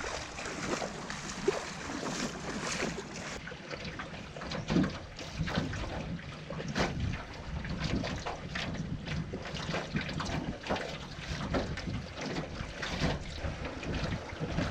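Water splashing and lapping against a canoe on open water, in irregular small splashes, with wind buffeting the microphone.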